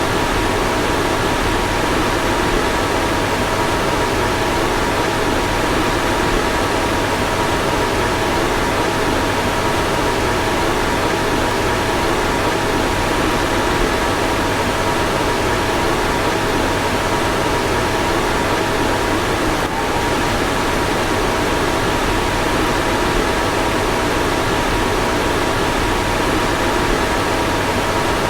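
Car fan running steadily: an even rushing of air with a faint steady whine through it, and a slight blip about twenty seconds in.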